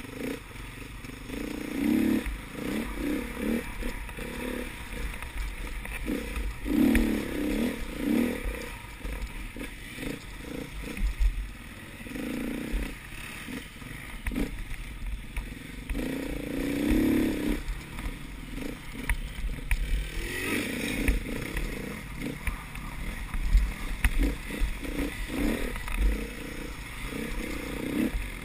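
Enduro dirt bike engine revving up and easing off over and over as the rider accelerates along the trail, heard from a camera mounted on the bike.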